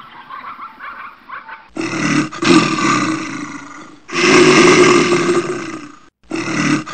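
Deep, loud roaring growls of a large animal in long bouts of about two seconds each, starting suddenly about two seconds in. Before that come fainter short animal calls.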